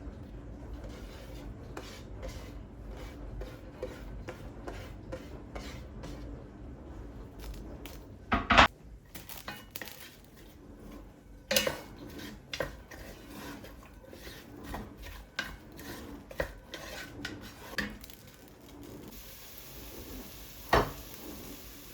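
Kitchen utensils and dishes clinking and knocking during food preparation, with many small clicks and three louder knocks. A steady hiss begins near the end.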